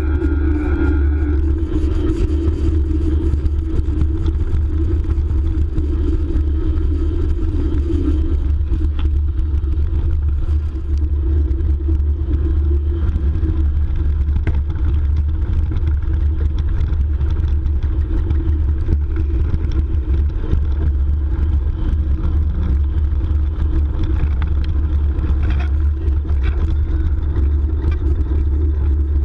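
Steady riding noise from a Bosch mid-motor e-mountain bike: a loud low rumble of wind buffeting the microphone, with a steady drone of tyre and drivetrain noise.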